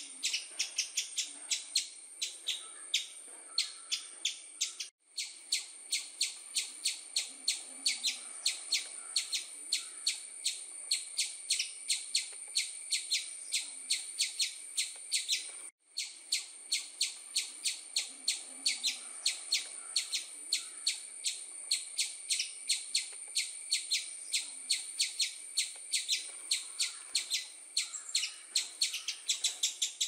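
Small songbirds chirping rapidly and without pause, about three high chirps a second, cutting out for a split second twice.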